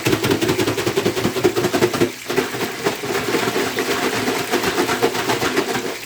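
Breaded chicken pieces frying in hot oil: dense, rapid crackling and popping, easing briefly about two seconds in.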